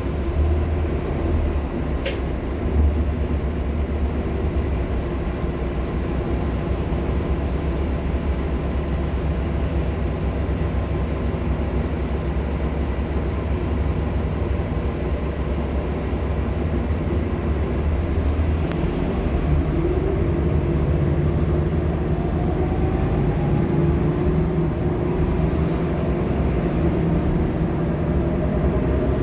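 Nova Bus LFSA articulated diesel-electric hybrid bus, with a Cummins ISL9 diesel and an Allison hybrid drive, running with a steady low drivetrain rumble. A little past halfway a whine starts and rises in pitch over several seconds as the bus picks up speed.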